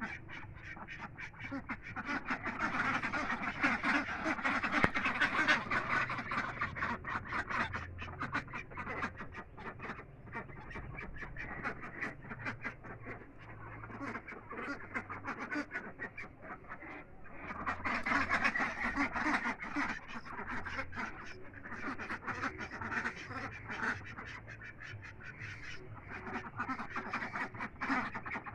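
A flock of ducks quacking and calling continuously, many overlapping calls, swelling louder twice, about 3 to 7 seconds in and again about 18 to 21 seconds in.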